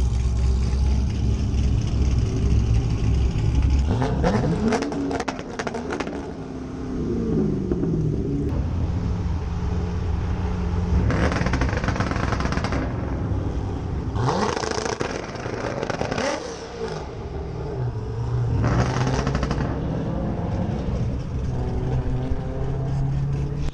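High-performance car engines at a car meet, idling and being revved. One engine's pitch climbs and falls back a few seconds in, followed by three more loud rev bursts spread through the rest.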